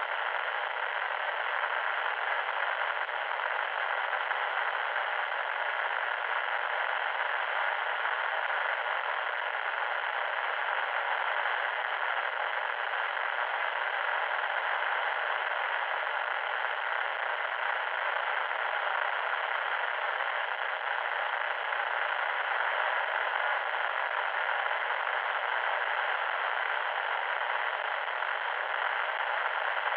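Loud static noise: a steady, harsh hiss that stays in the middle range, with no deep rumble and no high fizz, and never changes.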